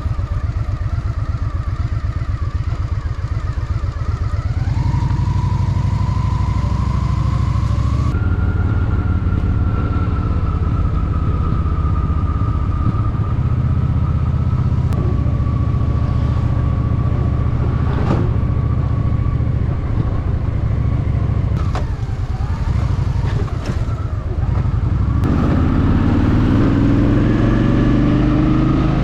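Honda Shadow VT750's V-twin engine running while riding, its low, throbbing exhaust note stepping to a new engine speed a few times, around four, eight and twenty-five seconds in.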